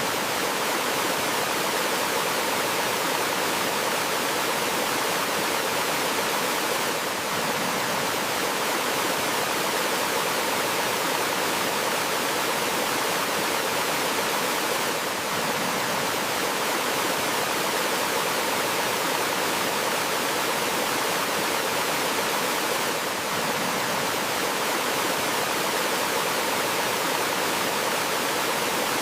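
Water flowing over rocks in a small forest waterfall or stream: a steady, even rush with no birdsong standing out.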